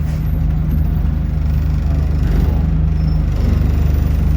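City bus engine running with a steady low hum, heard from on board the bus.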